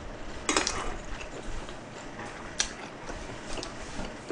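A person chewing a mouthful of food, with scattered small wet clicks and smacks of the mouth.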